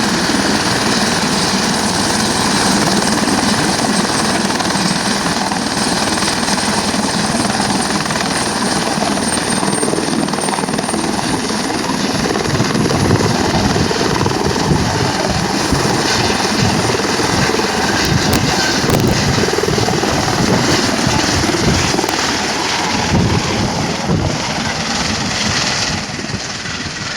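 Helicopter running with a high turbine whine over the rapid beat of its rotor blades, loud and steady, easing off a little near the end.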